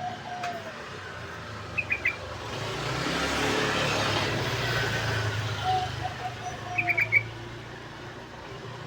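Yellow-vented bulbul giving two short bursts of quick, high chattering notes. A passing vehicle swells up and fades in the middle.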